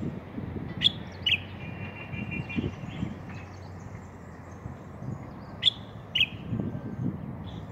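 Common bulbul calling: two pairs of short, sharp chirps, the two notes in each pair about half a second apart, with fainter high notes between them.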